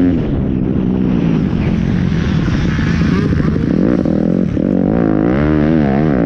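Pit bike engine revving under throttle, its pitch climbing, dropping briefly about four and a half seconds in, then swinging quickly up and down as the rider works the throttle.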